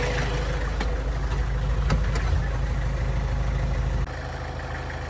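Kubota M9000 tractor's diesel engine idling steadily, with a few light clicks and knocks in the first two seconds. About four seconds in, the sound drops abruptly to a quieter, lower idle.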